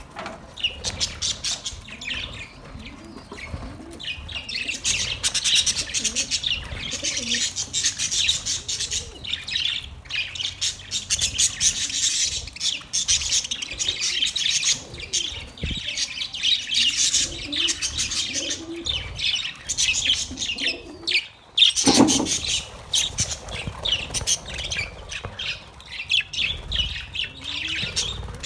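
Many small birds chirping together in a dense, continuous chatter. About 21 seconds in there is a brief break, followed by a single louder, lower call.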